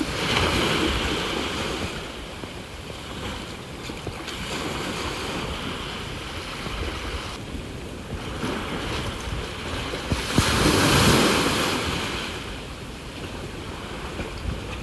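Sea waves washing onto the shore. They surge just after the start and again, louder, about ten seconds in, with wind buffeting the microphone.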